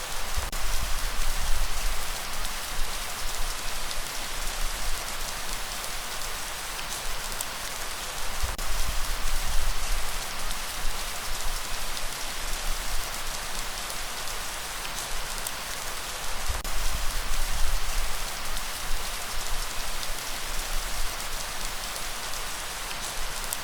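Steady, heavy rainfall hissing on surfaces, with a low rumble underneath that swells and fades every few seconds.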